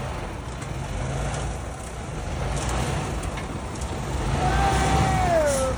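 Heavy diesel truck engines running under load in a low, steady rumble while one truck pulls a stuck concrete truck free. About four and a half seconds in, a long shouted call falls in pitch at its end.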